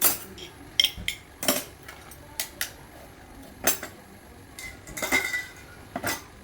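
Metal parts and tools clinking and knocking against each other as they are handled, in irregular sharp taps. A short metallic ringing comes about five seconds in.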